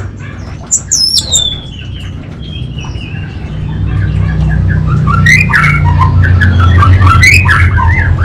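Orange-headed thrush singing: a sharp, falling whistle about a second in, then a fast run of varied chattering notes from about four seconds on. A steady low hum runs underneath and grows louder midway.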